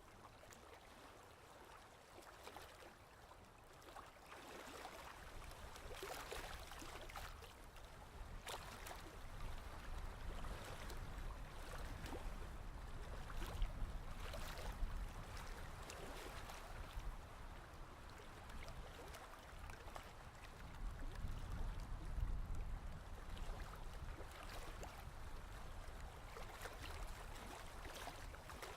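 Ocean waves washing in slow, faint swells, rising to a peak in the middle and again near the end.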